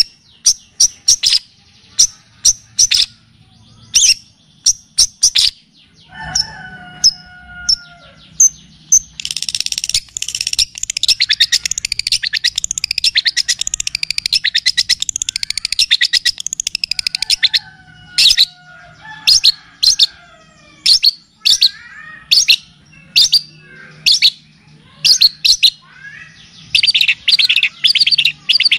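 Long-tailed shrike (cendet) song laced with mimicked kapas tembak and cililin phrases: sharp high call notes repeated about twice a second, a falling warbled whistle around six seconds in, then a long rapid chattering trill from about ten to seventeen seconds. More sharp notes and falling whistles follow, and the chatter returns near the end.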